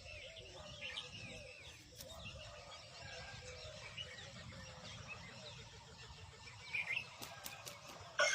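Birds chirping: many short, quick, high chirps over a faint, steady outdoor background, with a louder cluster of chirps about seven seconds in.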